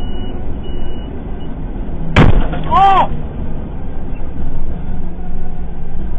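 Truck cab road and engine noise, broken about two seconds in by one sudden loud smash: a heavy rock hitting the truck's windscreen.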